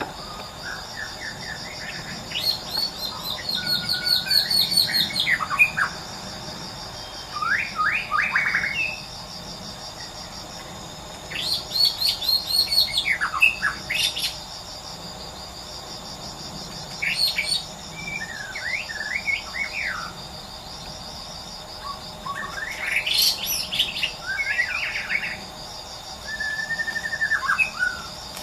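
White-rumped shama singing: about six bursts of varied whistled phrases with quick pitch glides, each a second or two long with short pauses between. A steady, pulsing insect chorus runs underneath.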